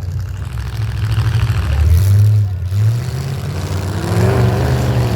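Demolition derby vehicle engines running and revving, the level swelling and easing, loudest about two seconds in.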